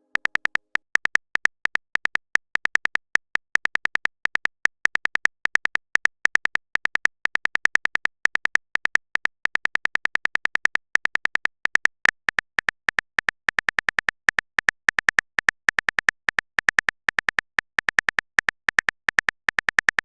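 Rapid typing sound effect: a stream of short, sharp clicks, several a second, with a few brief pauses, like message keys being tapped on a phone keyboard.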